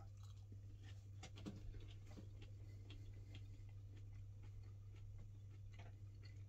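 Near silence: faint, scattered small clicks of a mouthful of chip being chewed, denser in the first couple of seconds, over a steady low hum.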